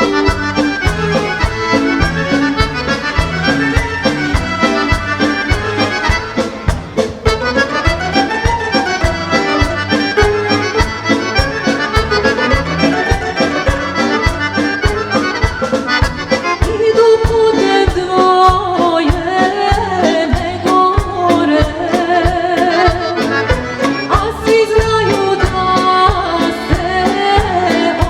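Accordion-led Serbian folk band playing with a steady beat, first as an instrumental passage; a woman's voice comes in singing with vibrato about two-thirds of the way through.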